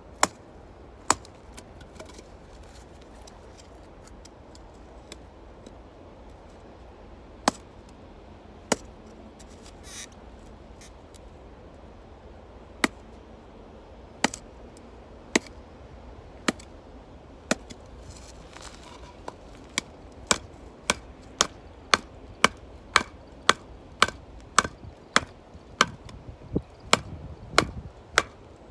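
Firewood being chopped or split: sharp wooden knocks, a few scattered strikes at first, then a quick steady run of about two strikes a second through the last third.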